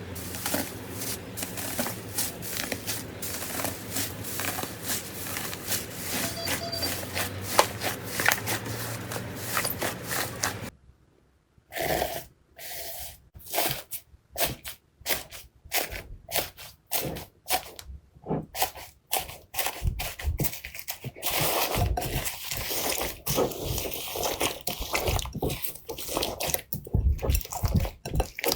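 Crunchy slime being squeezed and pressed by hand, giving a dense crackling of small pops and clicks. About eleven seconds in the sound breaks off briefly, then comes back as separate sharp pops that grow thick and crackly again later on.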